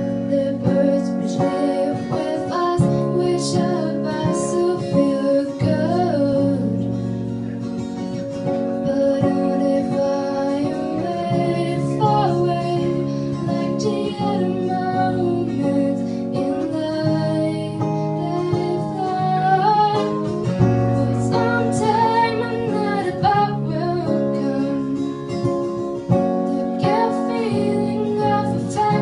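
Acoustic guitar picked and strummed, with a woman singing over it.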